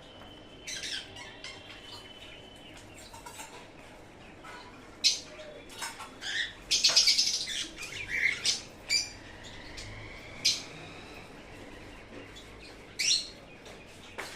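Sun conure giving short, sharp chirps and squawks off and on, with a loud cluster of calls around the middle.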